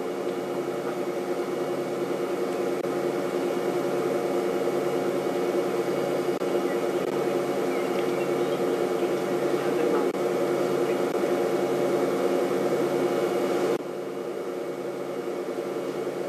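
Safari vehicle engine idling with a steady drone, easing slightly in level near the end.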